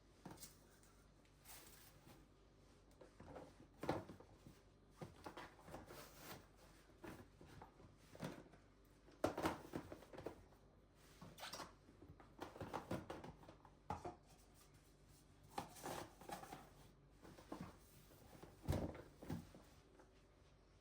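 Quiet, irregular handling sounds: soft knocks, clicks and rustles of small objects being moved about, a few louder knocks among them.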